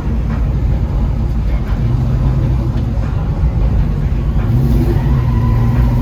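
A car engine running with a low, steady rumble, its tone growing stronger about two seconds in and again near the end.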